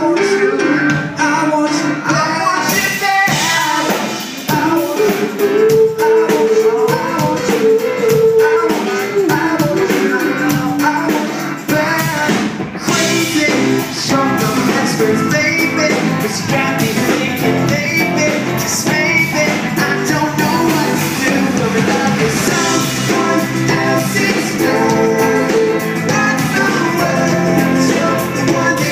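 A live pop-rock band playing, with a lead voice singing over electric guitars and a drum kit. After a short break about twelve seconds in, the bass and drums come in fuller.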